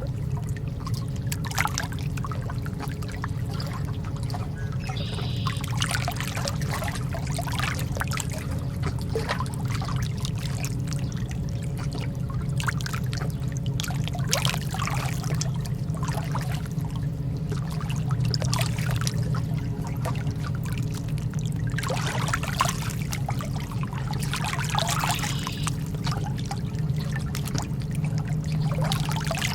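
Calm lake water lapping, with small irregular splashes and trickles over a steady low hum.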